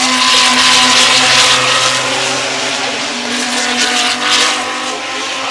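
GT3 race car engines at speed on the circuit. The sound swells over the first two seconds and again about four seconds in.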